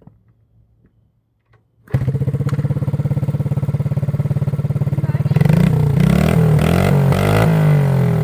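A 1985 Honda Z50R minibike's small four-stroke single-cylinder engine catches about two seconds in on its first start after being put back together, settling into a fast steady putter. A little past halfway it is revved, its pitch rising and falling a few times.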